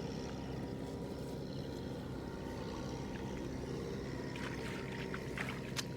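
Tractor engine running steadily at a constant drone while it prepares the soil. A few short clicks and knocks come near the end.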